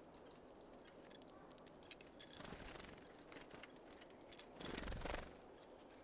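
Faint, short, very high thin calls of small songbirds at a feeder, over light scattered clicks and taps. A louder rustling swell comes about two and a half seconds in, and a stronger one near five seconds in.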